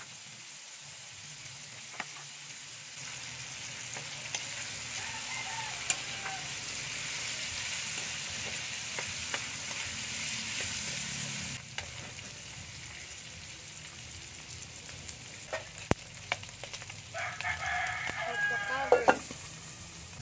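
Cubed pork belly sizzling in oil in a wok while it renders its fat, with sharp clicks of a metal spatula against the pan. The sizzle swells and then drops suddenly about two-thirds of the way through. Near the end a rooster crows once.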